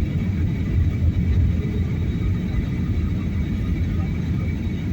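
Airliner cabin noise during the descent to landing: a steady low rumble of engines and airflow heard from inside the cabin, with faint steady high tones above it.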